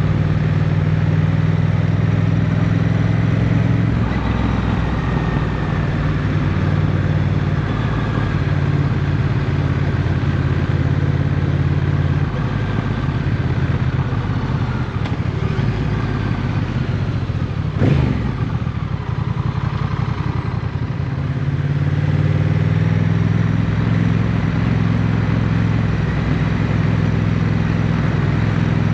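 Motorcycle engine running steadily under way, easing off through the middle and pulling again toward the end. A single sharp knock about two-thirds of the way through is the loudest moment.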